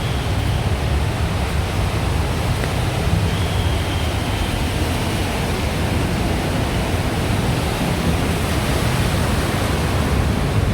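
Steady rushing noise of heavy rain and water on a flooded street, with a low rumble underneath.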